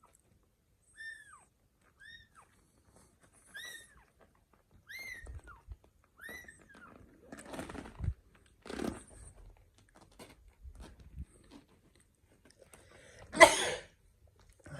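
Newborn kittens mewing: six short high-pitched cries, each falling in pitch, about a second apart, then rustling and light thumps, and one loud harsh cry near the end.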